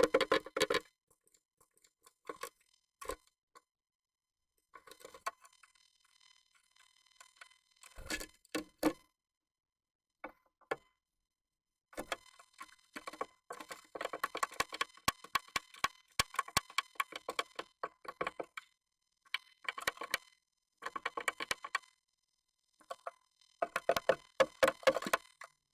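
Japanese tit moving about inside a nest box, tapping and scratching in bursts of rapid clicks with short quiet gaps between.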